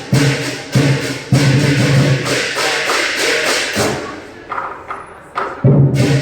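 Lion dance percussion: drum, cymbals and gong playing a steady, pounding beat. The playing thins out and drops in level about four seconds in, then the full ensemble crashes back in near the end.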